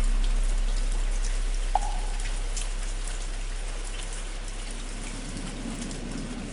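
Steady rain falling on a surface, with scattered drop ticks. Under it, a large bell's deep hum slowly fades away, and a single hollow wooden fish (muyu) knock sounds about two seconds in.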